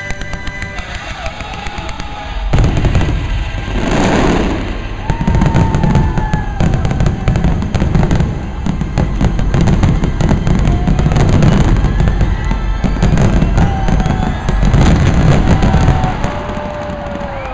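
Aerial fireworks barrage: a dense run of bangs and crackles with deep booms begins about two and a half seconds in and eases near the end, with several whistles gliding down in pitch, over the show's music.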